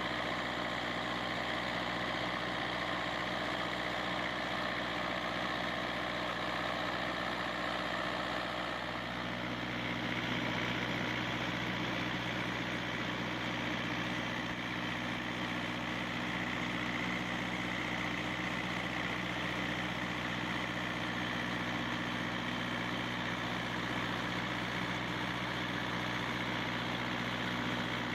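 Kubota V2203 four-cylinder diesel engine running steadily, with a slight change in its tone about nine seconds in.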